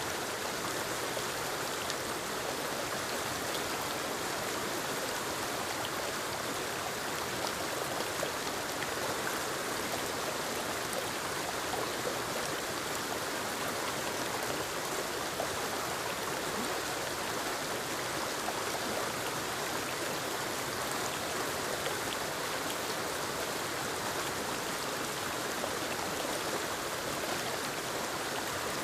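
Forest waterfall cascading over rocks into a stream: a steady rush of falling and splashing water.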